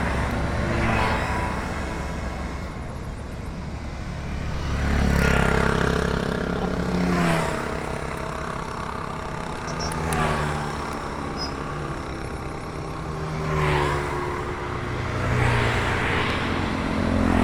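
Motorcycle engine running under way, its pitch rising and falling several times as the bike speeds up and eases off, over steady road and wind noise.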